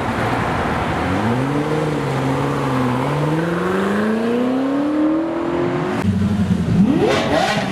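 Car engine accelerating hard, its pitch climbing steadily for several seconds. At about six seconds the sound changes abruptly to a different engine that revs up sharply near the end.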